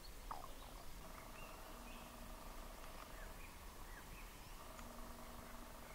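Faint wild birds calling: short scattered chirps, with one clearer falling call just after the start, over quiet outdoor ambience and a faint steady hum that comes and goes.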